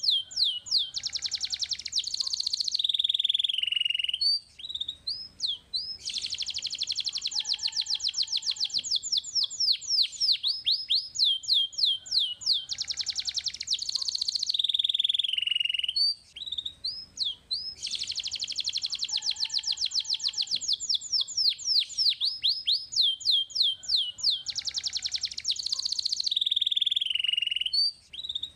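Domestic canary singing: fast trills of rapid repeated notes alternating with downward-sweeping whistles. The same run of song phrases comes back about every twelve seconds, as a looped song-tutor recording does.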